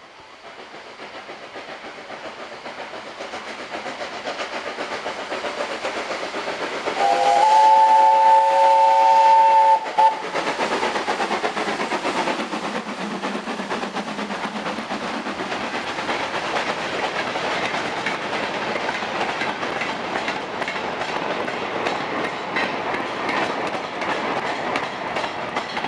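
A train approaching and passing, its running noise growing louder. About seven seconds in it sounds a loud chord-like whistle for about three seconds, then its wheels clatter over the rail joints as it goes by.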